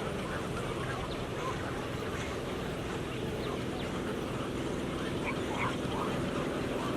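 A large flock of waterbirds calling, many short overlapping calls, over a steady background hum.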